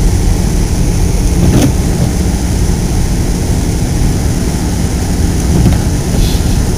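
Steady low rumble of a car on the move, heard from inside the cabin: engine and road noise, with a brief click about one and a half seconds in.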